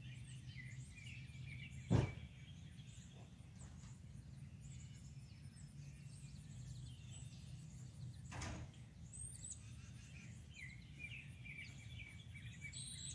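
Songbirds chirping and singing over a steady low hum, with a sharp knock about two seconds in and a softer one near eight and a half seconds.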